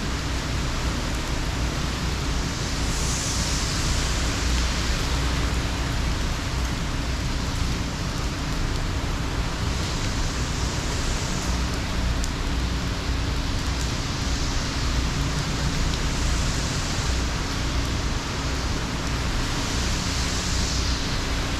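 Hurricane rain and wind: a steady, loud rush of noise with a deep rumble underneath, and a hiss that swells up briefly about every six seconds.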